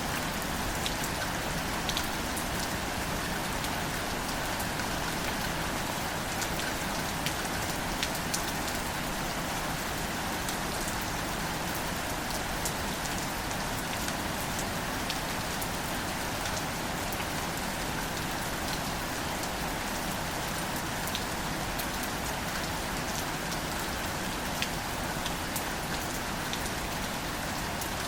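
Steady, gentle rain falling on wildflowers and leafy plants, an even hiss with scattered individual drops ticking.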